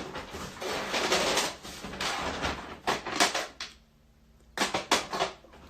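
Rustling and handling noise for about three seconds, then a short pause and a quick run of sharp clicks and knocks, like objects being handled and set down.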